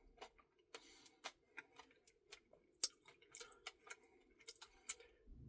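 Faint, irregular small clicks and taps over near silence, with one sharper click about three seconds in.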